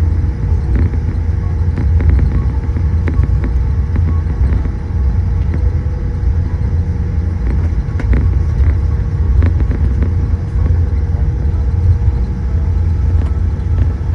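Steady low rumble and hum in the cabin of a Boeing 787-8 on the ground after landing, most likely taxiing, with a few faint scattered clicks and rattles.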